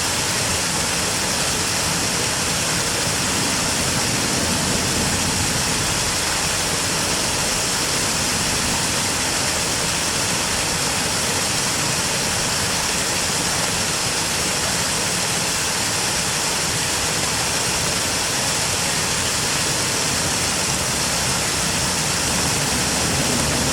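River water rushing, a steady, even noise without a break.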